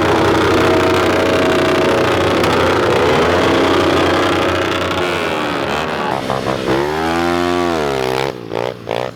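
Pit bike engines running, several at once. Near the end one engine's pitch drops and then climbs back up as it revs again.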